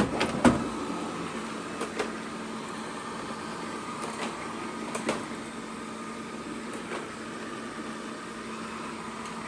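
Xiaomi Mi Robot Vacuum-Mop Essential running with a steady motor hum. Two sharp knocks within the first half-second, and a few light clicks later.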